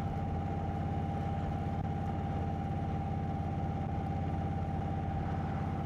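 Indian Chieftain's Thunder Stroke V-twin engine idling steadily through a Freedom Performance aftermarket exhaust, with an even, rapid pulse.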